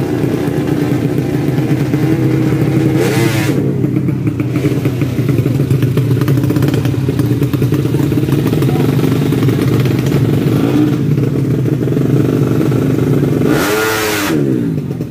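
Tuned four-stroke underbone drag motorcycle engine running steadily at a loud fast idle. It is revved up and back down briefly about three seconds in, and again near the end.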